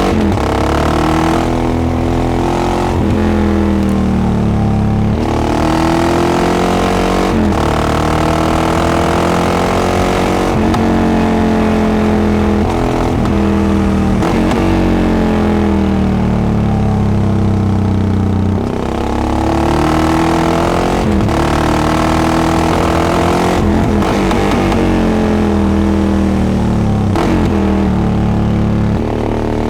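Yamaha XT660X's single-cylinder four-stroke engine through a Devil carbon exhaust, revving up and down under way. The pitch climbs and falls repeatedly, with short breaks at the gear changes.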